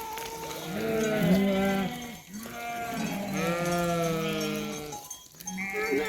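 A flock of sheep bleating, several animals calling over one another in long drawn-out bleats.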